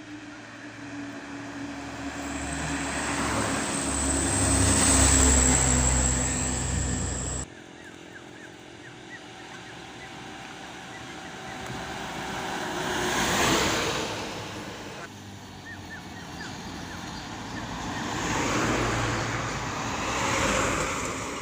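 Trucks driving past on a road one after another, each engine rising as it approaches and fading as it goes, the first with its pitch falling as it passes. The first pass-by cuts off suddenly about seven seconds in.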